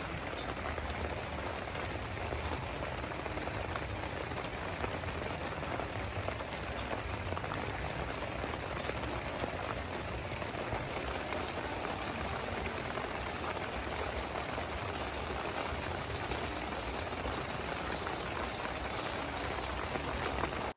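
Heavy rain falling steadily, an even, dense hiss that cuts off suddenly at the end.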